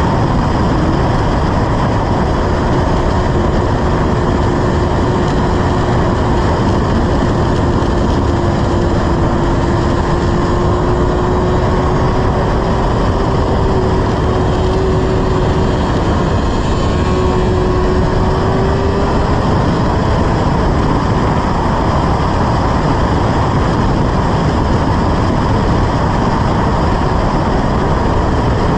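Suzuki sport motorcycle engine running at a steady pace while riding, under constant wind and road noise, its pitch rising slightly about two-thirds of the way through.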